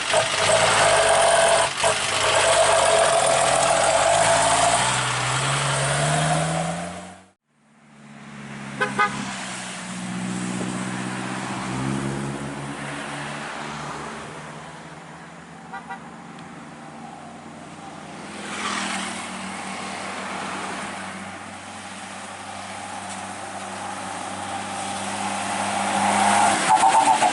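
Old truck's engine pulling hard and revving up, its pitch rising over the first several seconds. The sound cuts off abruptly about seven seconds in. The engine then returns quieter at a steadier pitch and grows louder again near the end.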